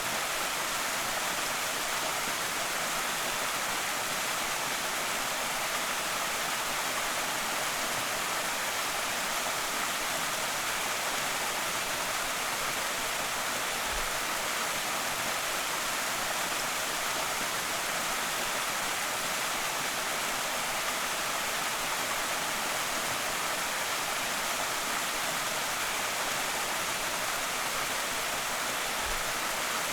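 Creek waterfall: water pouring and splashing in a steady, unbroken rush of white noise.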